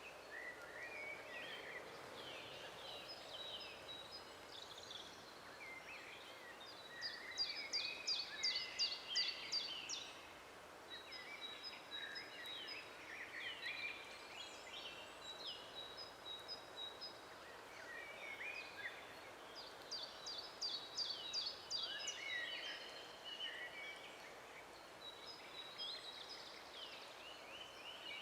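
Several songbirds singing in a forest, a mix of high chirps, whistled notes and short phrases. A fast, high trill stands out twice, about a quarter of the way in and again about two thirds of the way in.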